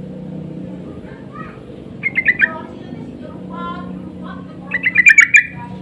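Yellow-vented bulbuls calling back and forth: two loud bursts of quick chattering notes, about two seconds in and near the end, with fainter calls between, over a steady low hum.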